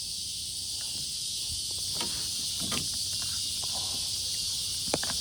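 Steady high-pitched chorus of evening insects, crickets and katydids droning without a break. A few light knocks and taps come about two seconds in, again a little later, and near the end.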